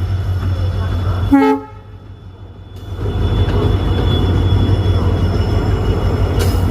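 WDP-4D diesel locomotive's EMD two-stroke V16 engine running with a steady low rumble. About a second and a half in, a single short horn toot sounds. The sound then drops away for about a second before the engine rumble returns, louder.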